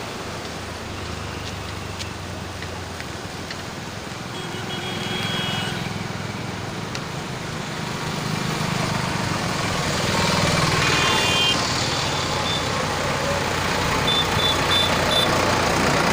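Traffic passing over a road bridge, a steady rush that grows louder in the second half, with short high horn beeps three times.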